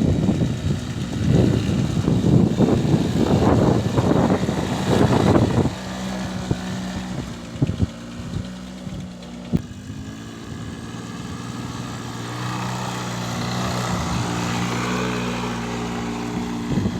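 Quad bike engine running rough and loud, then settling about six seconds in to a steady idle.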